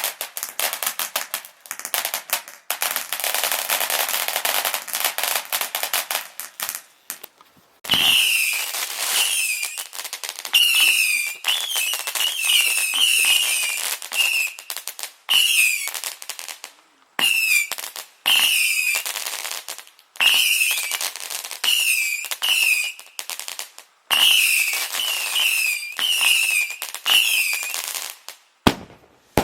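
Fireworks going off. For the first several seconds there is dense, rapid crackling. After that comes a series of short loud bursts of crackling mixed with high wavering whistles, each stretch stopping suddenly.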